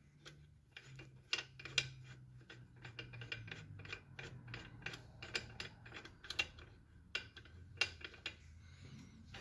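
Quick, irregular mechanical clicking and ticking from hand work on a 2010 Toyota Corolla's loosened serpentine belt drive, over a faint low hum.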